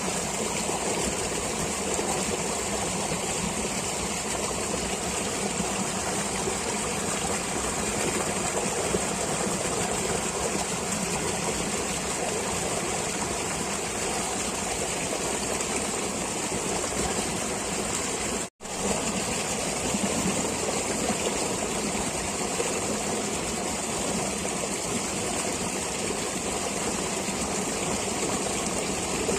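Flowing stream water, a steady rushing and trickling. It cuts out for an instant about two-thirds of the way through, then carries on unchanged.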